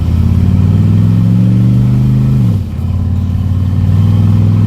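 1973 Corvette's 350 V8 accelerating in second gear, its note climbing slowly. About two and a half seconds in the pitch drops suddenly, then it pulls steadily again.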